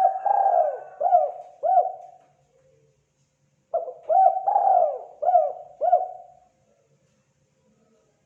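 Spotted dove cooing: two phrases of about five arching coo notes each, the first already under way at the start and the second beginning about four seconds in.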